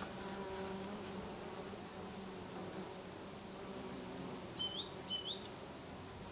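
Several bees buzzing steadily while foraging in lavender, a low overlapping drone. Two short high chirps stand out a little after the middle.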